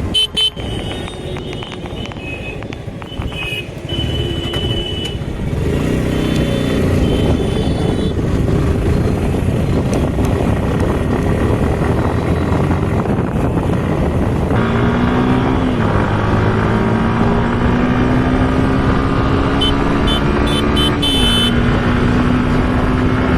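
Motorcycle engine running on the move, its pitch climbing steadily and dropping briefly twice as gears are changed, over road and wind noise. A few short high beeps come near the end.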